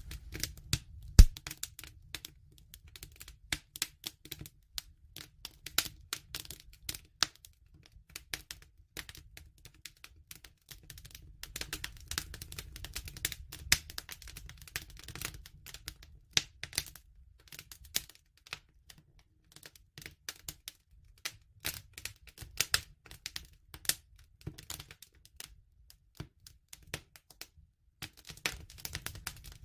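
Wood fire burning, crackling with irregular sharp pops and snaps over a low rumble of flame, with one loud pop about a second in.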